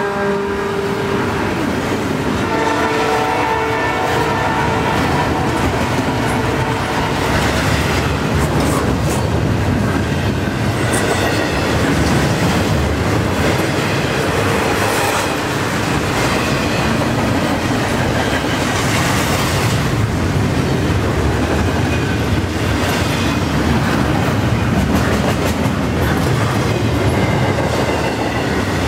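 Double-stack intermodal well cars rolling past at about 44 mph: a steady rumble of steel wheels on rail with scattered clicks and clatter over the rail joints. In the first several seconds the horn of the departing lead locomotives is still heard, fading away.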